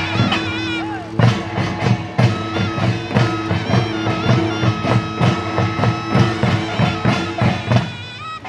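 Korean folk band music: a shrill taepyeongso reed horn holds and steps between loud notes over regular drum and gong strokes, about two a second. The music dies away near the end.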